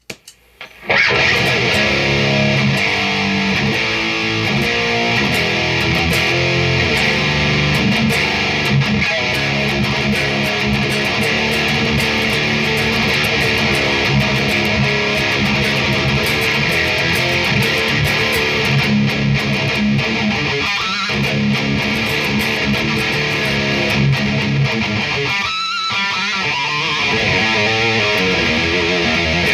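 Electric guitar with a Seymour Duncan Nazgul pickup playing heavy distorted riffs through a loud, high-gain Mesa Triple Rectifier amp. The playing starts about a second in and breaks off briefly near the 26-second mark.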